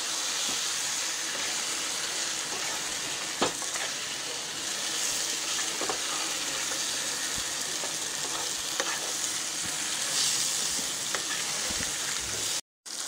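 Spice-coated corn-cob pieces sizzling in oil and butter in a kadhai over a high flame, with a spatula stirring them and now and then knocking against the pan. The sound cuts out briefly near the end.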